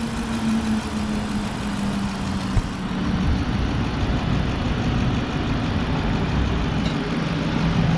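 2010 police-package Dodge Charger's engine idling with the hood open, a steady hum that drops slightly in pitch over the first few seconds and then holds. A single click about two and a half seconds in.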